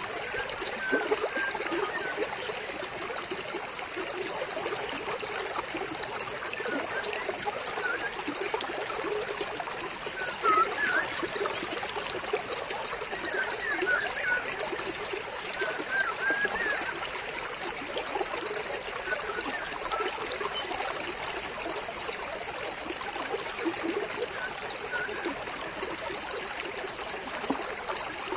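Water flowing and trickling steadily in a stream, full of small splashes and gurgles, with short bird chirps now and then.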